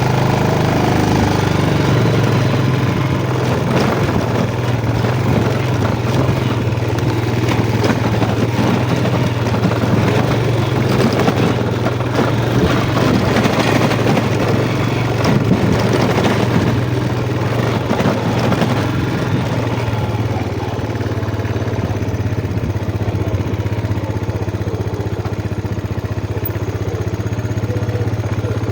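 Yamaha Jupiter MX motorcycle engine running steadily at low speed as the bike is ridden slowly over rough ground, with small rises and falls in engine note.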